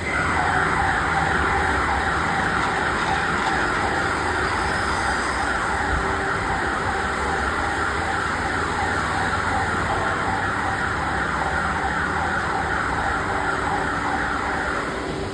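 Factory machinery running: a steady mid-pitched whine made of rapidly repeating sweeps over a low hum, starting suddenly and cutting off near the end.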